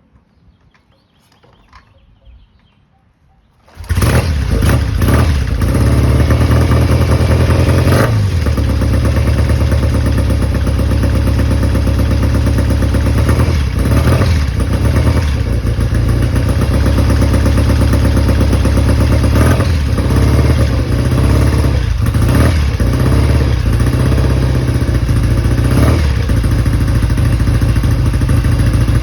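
1969 Triumph Bonneville's 650 cc parallel-twin engine on a cold start: after a few quiet seconds it fires about four seconds in and runs steadily, its note changing briefly now and then.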